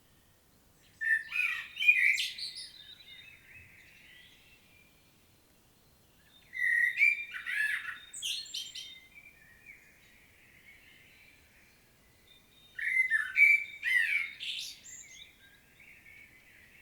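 Common blackbird singing: three song phrases about six seconds apart, each a loud fluting warble that trails off into a quieter ending.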